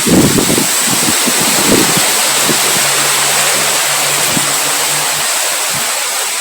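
Strong wind blowing as a steady rushing hiss, with low rumbling gusts underneath. A faint low hum joins in for a few seconds in the middle.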